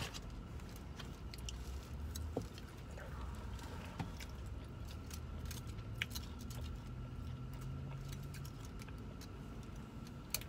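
Someone eating crunchy battered fried fish and shrimp: scattered small crunches and clicks from chewing and handling the food, over a low steady hum.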